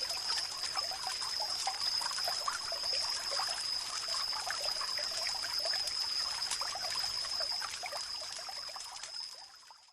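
Water trickling and bubbling in a small stream, with a steady high-pitched tone running through it; the sound fades out near the end.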